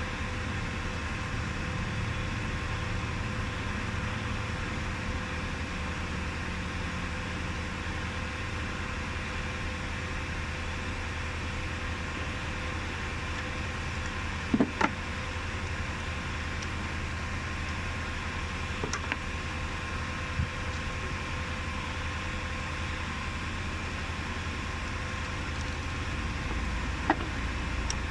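Steady mechanical hum, with a few short sharp clicks near the middle and once near the end.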